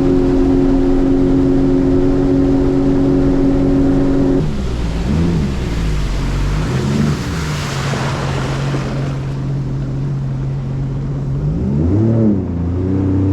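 Boat engine running at high speed, then easing off about four and a half seconds in; its pitch swells and falls a couple of times before settling lower, and rises again near the end. A rush of water or wind noise builds and fades around the middle.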